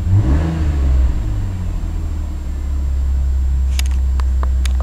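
Cold engine idling on its automatic choke, a steady low drone whose pitch wavers for the first two seconds before settling. A few sharp clicks near the end.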